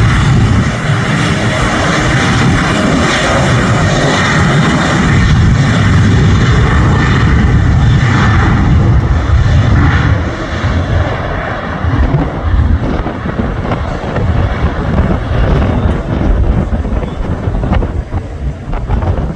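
Boeing 737-800 jet airliner's CFM56 turbofan engines running loud at takeoff thrust. The noise eases about halfway through as the aircraft moves away and turns gusty and uneven.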